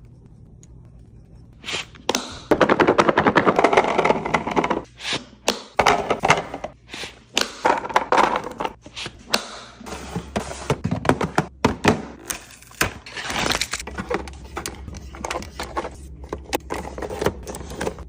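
Food packages and containers being handled and set down while restocking a fridge: a run of thunks, knocks, clatter and scraping. A low hum sits underneath from about halfway through.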